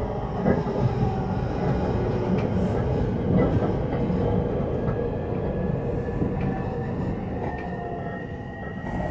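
Interior noise of a JR East Takasaki Line electric train: a steady rumble of wheels and running gear as it slows alongside a station platform. A faint electric whine rises slightly in pitch from about halfway through.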